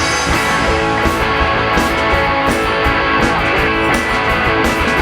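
Live rock band playing an instrumental passage between vocal lines: electric guitars strumming over bass and a steady drum beat.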